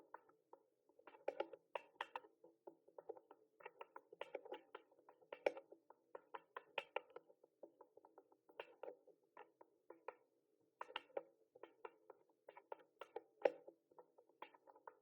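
Mechanical keyboard keys being typed on: irregular runs of sharp clicks, several a second, broken by short pauses.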